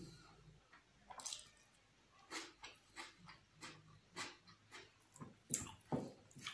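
Wet chewing and lip-smacking of a person eating with his mouth: a run of short smacks, about three a second, from about two seconds in.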